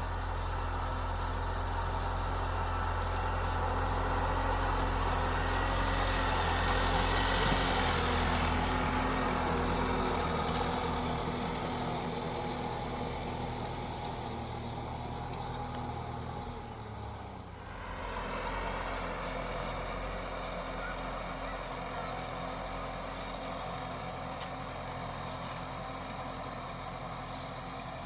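An engine running steadily. It grows louder to a peak about seven seconds in, then fades somewhat, with a brief dip a little past halfway.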